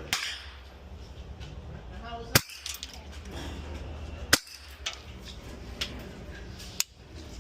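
Single gunshots from firearms on a shooting range, spaced irregularly: two loud shots about two seconds apart mid-way, with fainter shots near the start and near the end.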